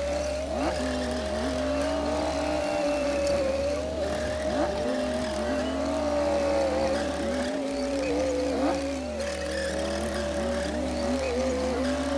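Komatsu D60P bulldozer's diesel engine running steadily under work, its note wavering slightly up and down.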